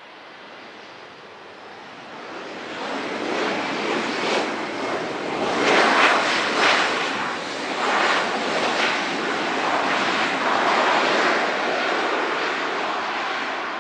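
Aircraft engine noise, a loud rushing that builds over the first few seconds, holds steady, then falls away at the end.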